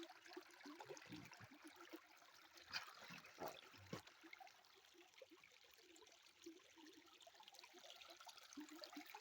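Faint flowing river water, with a few soft knocks about three to four seconds in.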